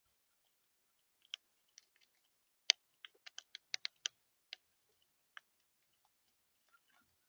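Sharp taps and clicks at a bird feeder, about a dozen in an irregular run over some four seconds, the loudest about a third of the way in: birds pecking at seed and on the feeder.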